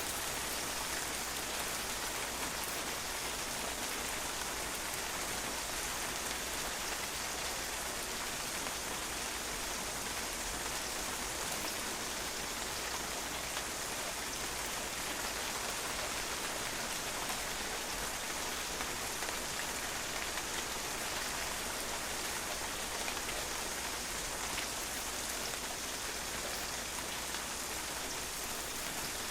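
Steady rain falling on a patio, drops pattering on the hard surface in an even, unbroken hiss.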